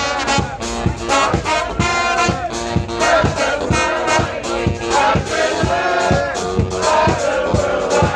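Live band music: brass horns playing a melody over a steady drum beat of about two beats a second.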